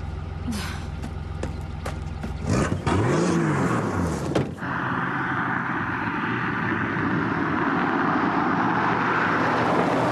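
Car engine running, revved up and back down once about two and a half seconds in, to clear what is taken for dirt in its fuel filter; then, from a sudden change near halfway, a steady rush of driving noise.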